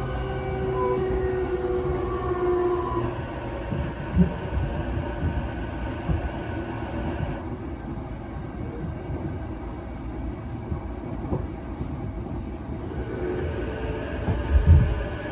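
Keihin-Tohoku line electric commuter train running between stations, heard from inside the car: a steady motor whine that fades about three seconds in, over a constant low rumble of wheels on track with a few short thumps, the loudest near the end.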